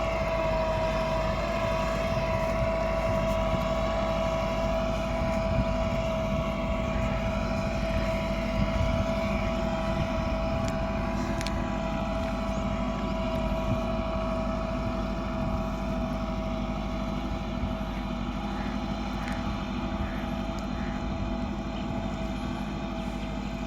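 Massey Ferguson 375 tractor's four-cylinder diesel engine running steadily under load while pulling a disc harrow.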